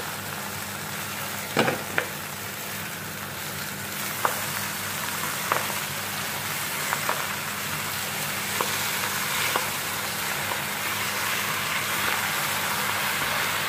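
Fresh spinach sizzling in hot oil with browned onion in an aluminium pot, stirred with a wooden spatula. A few sharp knocks of the spatula against the pot come in the first ten seconds.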